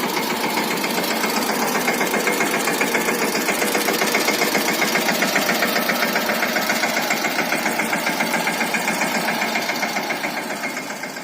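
Mahindra Yuvraj 215 NXT mini tractor's single-cylinder diesel engine running steadily with a rapid, even thumping beat, fading near the end.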